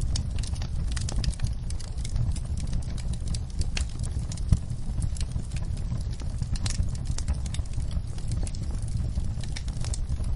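Wood fire in a fireplace crackling, with irregular small pops and one sharper pop about four and a half seconds in, over a steady low rumble.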